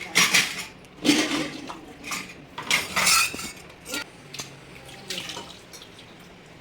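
Dishes and cutlery clattering against each other as they are washed by hand, with water splashing.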